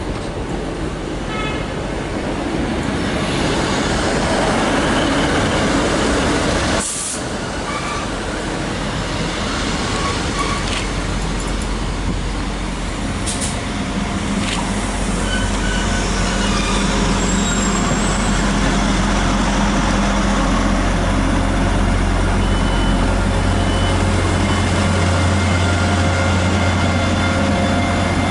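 A train running past at a railway station, then, after an abrupt cut about seven seconds in, a train's steady low engine hum that grows louder in the second half.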